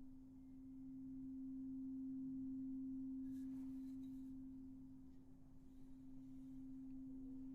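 A sound-healing instrument ringing one sustained pure tone, swelling slowly and easing off again.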